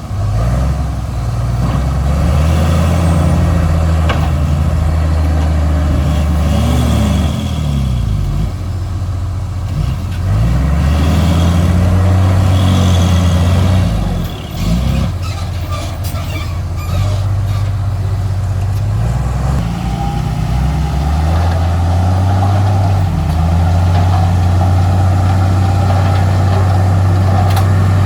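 Heavy diesel earthmoving machinery running loud. The engine note sweeps up and down repeatedly for several seconds in the middle, then holds steady.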